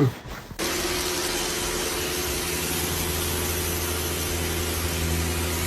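A motor running steadily, a strong even hiss over a low hum, starting abruptly about half a second in.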